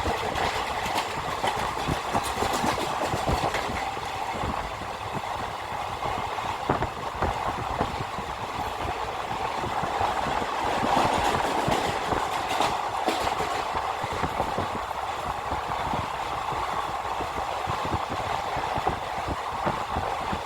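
Train running at speed, its wheels clattering over the rail joints with many short clicks above a steady rumble.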